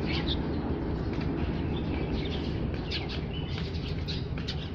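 A flock of small birds chirping busily, many short high calls overlapping, over a steady low background rumble.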